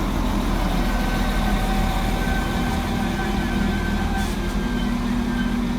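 Class 196 diesel multiple unit running steadily at low power, an even low engine drone with a faint thin steady tone above it.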